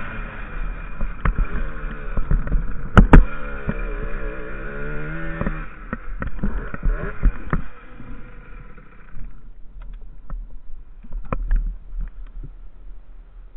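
50cc enduro motorcycle engine running at low, wavering revs, with one sharp knock about three seconds in. The engine stops a few seconds later, leaving only scattered clicks and knocks.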